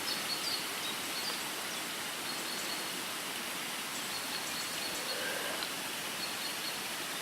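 Steady outdoor ambient hiss with a few faint, high bird chirps.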